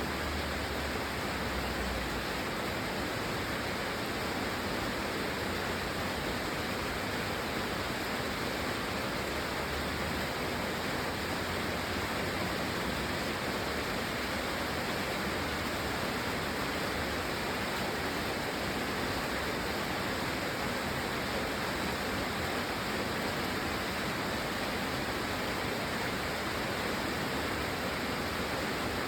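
Steady rain: an even, unbroken hiss with no separate drops, thunder or other events standing out.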